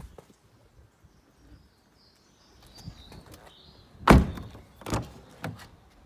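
Car door shutting with a solid thunk about four seconds in, followed by two lighter knocks of the door and its handle.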